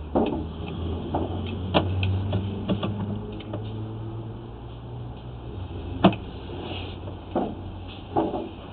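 Sewer inspection camera rig in use while the camera is backtracked through the line: a steady low hum with irregular knocks and clicks, the sharpest about six seconds in.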